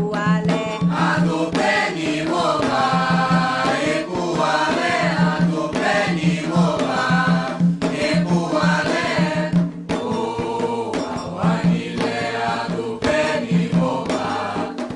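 Voices chanting a Candomblé song in Yoruba over a steady drum beat of about two strokes a second.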